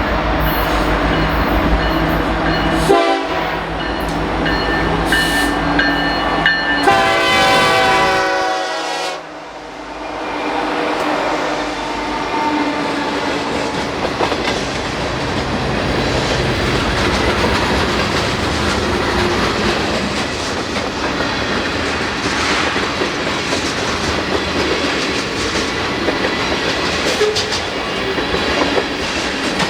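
A Canadian National freight train passes close by. The diesel locomotives drone at first, and their air horn sounds a short blast about three seconds in and a longer one around seven seconds in. After that the engine drone drops away and the steady rumble and clickety-clack of freight cars rolling over the rail joints takes over.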